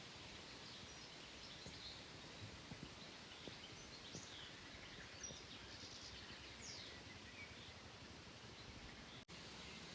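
Faint outdoor ambience: a low steady hiss with scattered faint bird chirps. The sound cuts out for an instant near the end.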